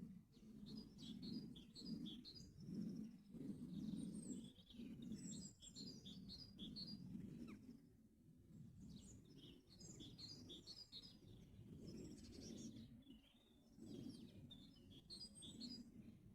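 Birds singing faintly, with phrases of quick, high chirps and trills coming and going, over a constant low rumble of background noise.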